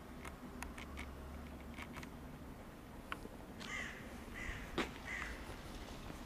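A bird gives three short, harsh caws in the second half, over a low steady rumble from the running train. A sharp click falls among the calls.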